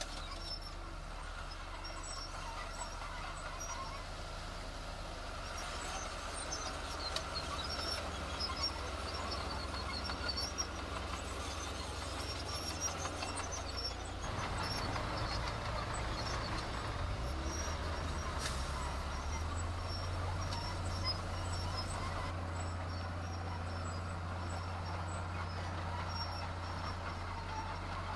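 Diesel engine of heavy construction machinery running steadily, a low drone that shifts in pitch about halfway through and again a few seconds later, with faint high clicks and squeaks over it.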